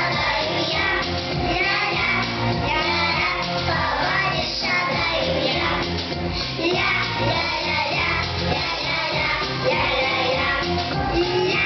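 Children singing a pop song over a recorded instrumental backing track with a steady beat.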